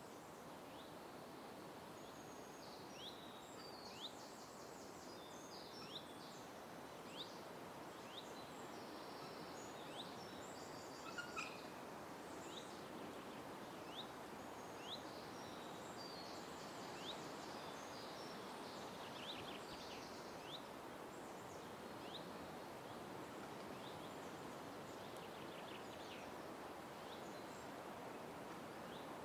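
Wild birds calling in a park. One bird repeats short, sharp, high notes roughly once a second, while other birds add bursts of higher chatter, all over a steady background hiss.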